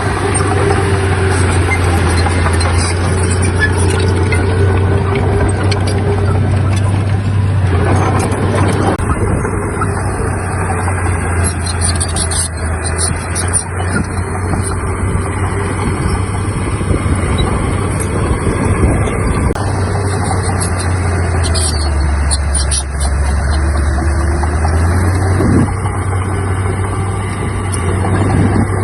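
Heavy diesel engine running steadily, its pitch dropping for a few seconds a little past the middle and then coming back up, with scattered light clinks over it.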